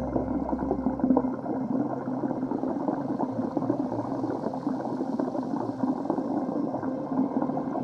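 Water gurgling and churning in a dense, crackling wash, with a faint steady hum underneath and a deep rumble that cuts off about a second in.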